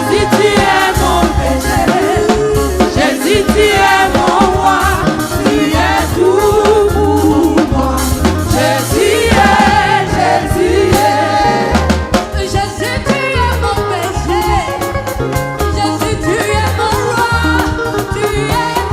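Gospel choir singing with a band and drum kit, in a steady beat.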